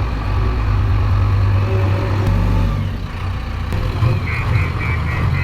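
Heavy diesel machinery engine running steadily with a deep hum. About four seconds in, a rapid high-pitched beeping starts, roughly four beeps a second.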